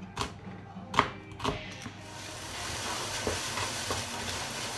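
A knife chops on a cutting board about three times, then about two seconds in a steady sizzling hiss of food frying in a hot pan takes over.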